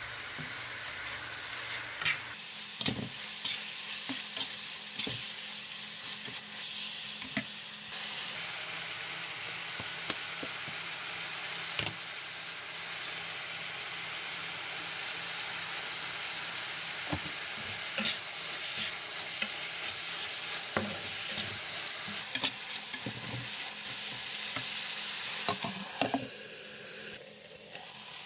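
Chicken pieces sizzling in a frying pan, with a spatula scraping and knocking against the pan as they are stirred. The sizzle dips briefly near the end.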